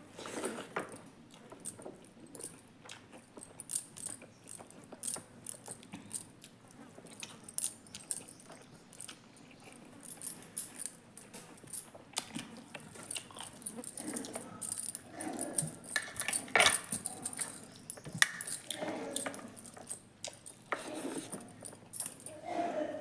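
Close-up eating sounds: chewing and wet mouth noises with many light clicks and small clinks, and a few short grunt-like vocal sounds in the second half.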